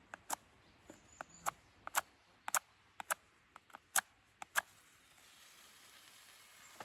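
A quick, uneven run of about a dozen sharp clicks and taps, stopping after about four and a half seconds, followed by a faint steady hiss.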